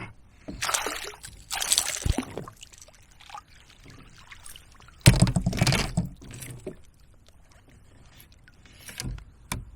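Water splashing and pouring in short bursts beside a kayak, the loudest splash about five seconds in, followed by a couple of light knocks near the end.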